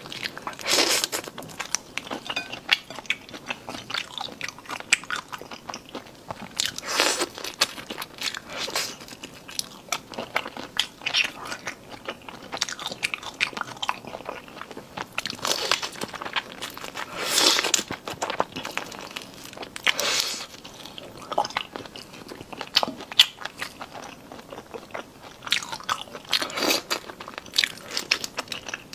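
Close-up chewing and crunching of cold-marinated seafood that is still partly frozen, with ice crystals crackling between the teeth. Repeated bites and chews with sharp crunchy bursts throughout.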